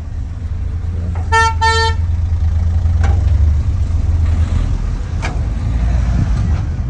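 Steady low rumble of a car driving, with two short car-horn beeps about a second and a half in.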